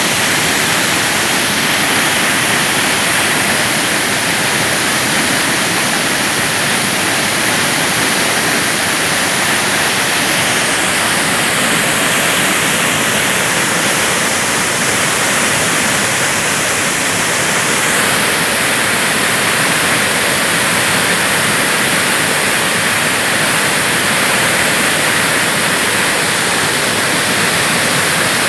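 Iguaçu Falls: a huge waterfall pouring, a loud, steady rush of falling water with no break.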